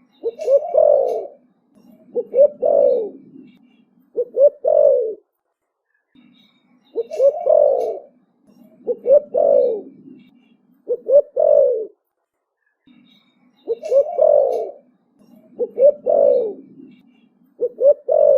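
Young spotted dove cooing in the 'thổ bầu' style. Three-part coo phrases repeat about every seven seconds, each note a short falling coo, with a softer, lower coo ('gù') between the louder ones.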